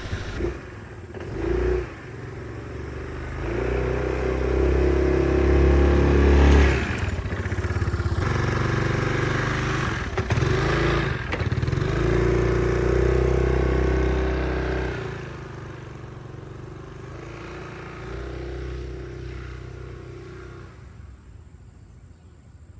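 2006 Yamaha Majesty 400 scooter's single-cylinder engine running and revving up and down several times. It goes quieter after about fifteen seconds and fades out near the end.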